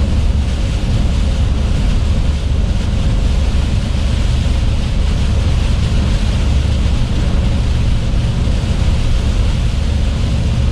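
Truck engine running steadily, heard from inside the cab, under a constant wash of rain, tyre spray and wind noise from driving on a wet road.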